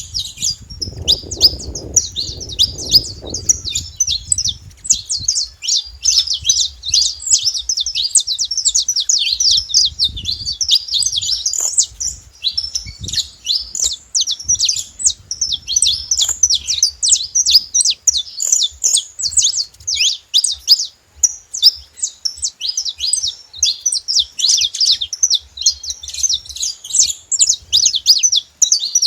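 Saffron finches singing, a dense, continuous run of quick high chirps and trills from several birds. A low rumble sits under the song for the first few seconds.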